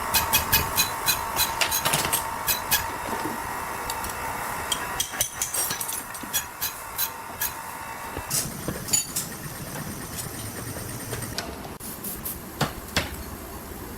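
Hammer blows tapping on metal: irregular sharp strikes about twice a second, thinning out after about eight seconds to a few single blows. A faint steady hum under the strikes stops about eight seconds in.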